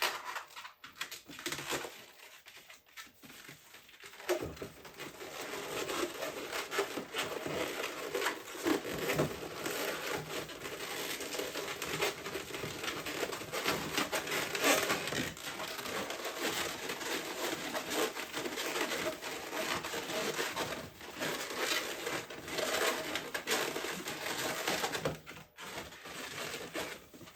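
Inflated latex modelling balloons (260s) being handled and twisted together by hand, a steady rubbing, crinkling and squeaking of rubber. It goes on with many small clicks from a few seconds in until near the end.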